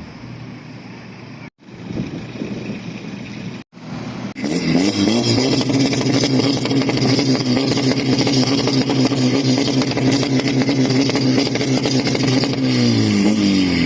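Car engine revved hard and held at high revs for about eight seconds, then dropping back as the throttle is released near the end. Before it, a few seconds of quieter engine noise broken by abrupt cuts.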